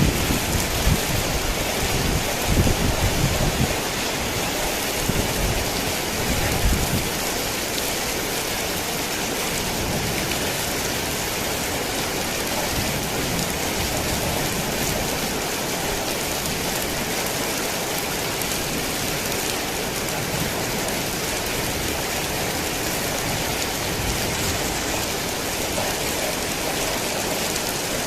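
Heavy rain falling steadily, with a low rumble of thunder over the first several seconds that dies away.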